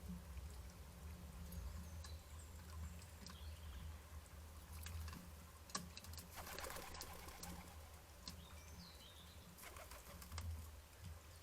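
Faint backyard bird-feeder sounds over a low steady hum: a brief flurry of bird wingbeats about six and a half seconds in, a few sharp clicks, and a couple of faint chirps.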